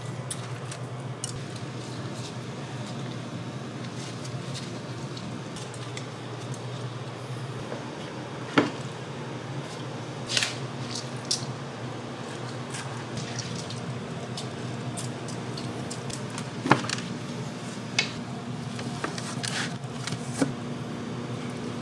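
Kitchen food preparation: wet, squishy handling of food with a few sharp knocks and clinks, over a steady low hum.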